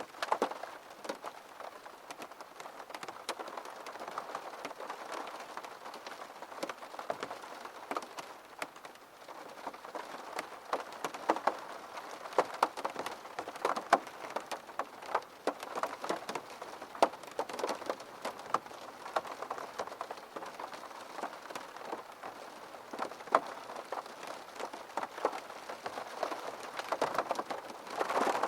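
Rain falling steadily and pattering on a window, a constant hiss with many irregular sharp drop taps.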